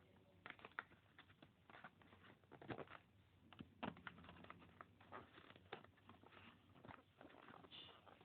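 Faint, irregular small clicks and taps from earphones and their packaging being handled, with a brief high squeak near the end.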